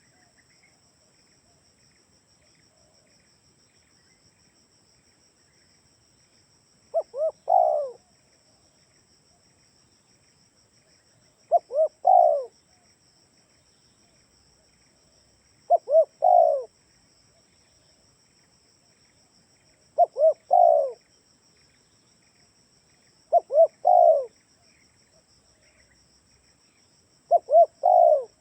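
Spotted dove (tekukur) cooing: six phrases about four seconds apart, starting about seven seconds in, each two short coos and a longer one. A steady high chirring of crickets runs underneath.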